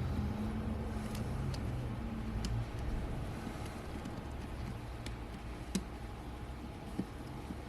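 A low steady rumble that eases off about six seconds in, with a few faint, light clicks from small metal parts and tools being handled during a lens teardown.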